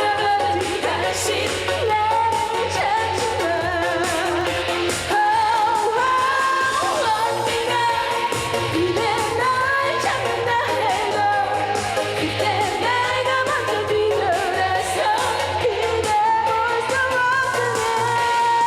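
A woman singing a Korean trot song over a pop backing track, her voice wavering with vibrato above a steady bass line.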